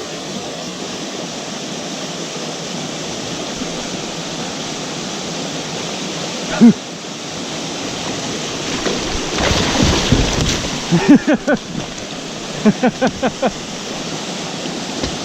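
Water pouring steadily over a small river waterfall, with a louder splashing about two-thirds of the way through and a sharp knock about halfway. Near the end, two quick runs of short pitched sounds stand out above the water.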